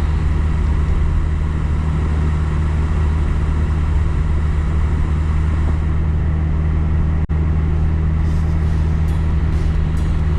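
Car driving along a road: a steady rumble of tyres and engine with road noise. The sound cuts out for an instant about seven seconds in.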